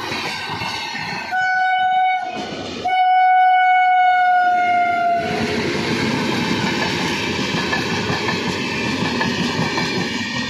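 Express passenger train passing at speed, its wheels rumbling and clattering on the rails. A locomotive horn sounds twice: a short blast about a second in, then a longer one that falls slightly in pitch as it passes.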